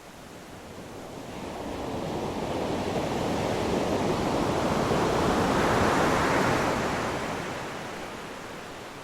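Sea waves on a beach: one wave swells up over several seconds, breaks and washes in loudest about two-thirds of the way through, then recedes.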